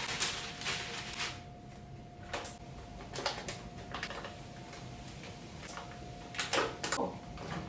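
Scattered light clicks and knocks of kitchen items being handled, over a faint steady hum.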